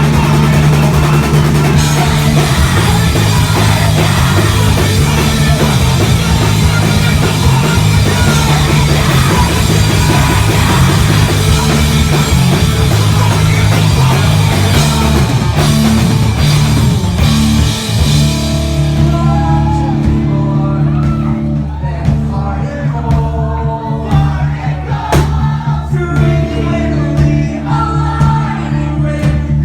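Loud rock music with singing, drums and guitars, recorded live. About eighteen seconds in, the dense full-band sound thins out to a quieter passage of held bass notes and melodic guitar lines.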